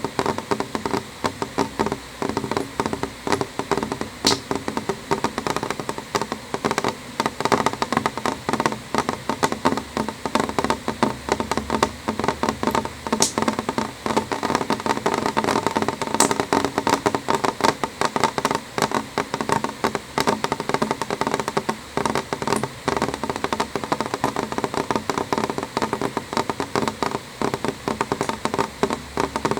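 Rain on a window pane: a steady, dense tapping of drops on the glass, with a few sharper single ticks standing out now and then.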